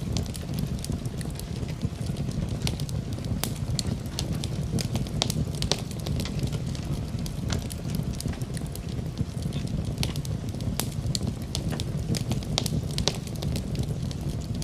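Fire burning in a fireplace, with irregular sharp crackles and pops over a steady low rumble of flame.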